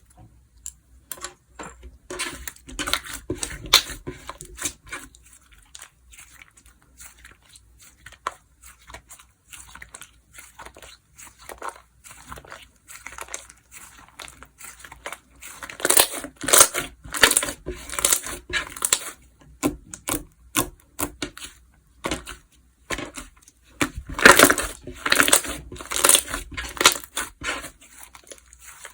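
Slime being squished, stretched and pressed by hand, making sharp crackling clicks and pops. The clicks come thickest in three spells: a few seconds in, around the middle, and again near the end.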